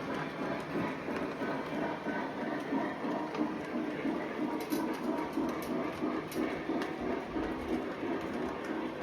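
Model train running on the layout's track: a steady rumble with a quick, even rhythm of wheels clicking over the rails.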